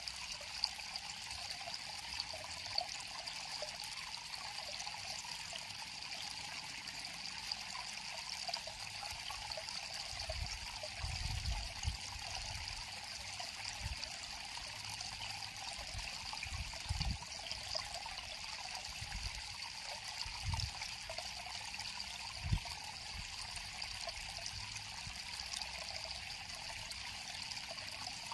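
River water flowing and trickling steadily, with a few short, soft low thumps in the middle.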